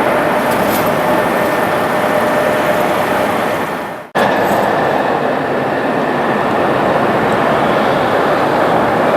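Loud, steady jet airliner engine noise with a faint whine. It fades and breaks off about four seconds in, then cuts straight to another jet's engine noise with a higher whine.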